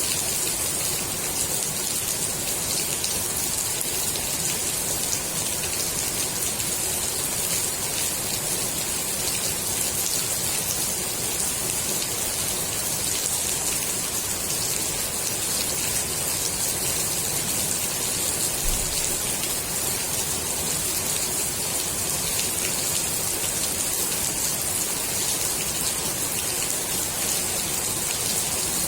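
Steady rain falling on the water of a swimming pool, a dense even patter of drops hitting the surface.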